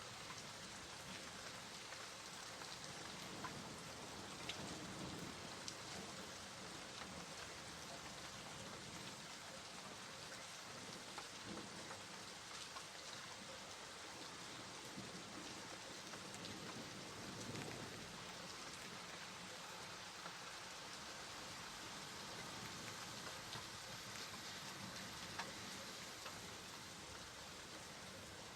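Steady rainfall, a soft even hiss of rain with scattered drops pattering on a surface.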